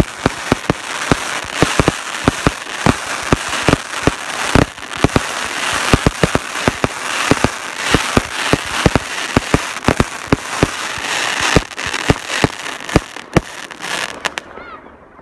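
Fireworks display: a dense barrage of sharp bangs over continuous crackling from bursting shells, several reports a second. It stops suddenly about fourteen seconds in.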